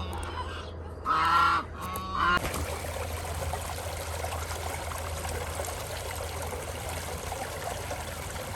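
Geese honking, two short calls in the first couple of seconds. The sound then cuts to the steady rush of a stream.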